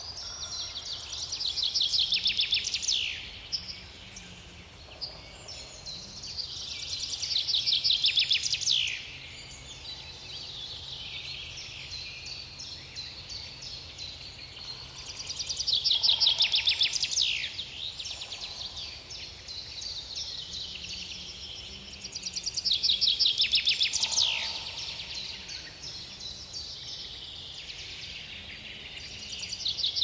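A songbird sings the same loud song four times, about every seven seconds, and starts a fifth near the end. Each song is a fast, high run of notes about two seconds long that builds in loudness and ends in a quick downward sweep. Fainter bird chirps fill the gaps, over a faint steady low rumble.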